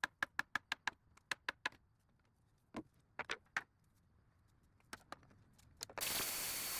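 Quick run of sharp, evenly spaced clicks, about seven a second, then a few scattered clicks: a ratcheting screwdriver backing out the screws that hold the desk top. About six seconds in, a steady hiss starts.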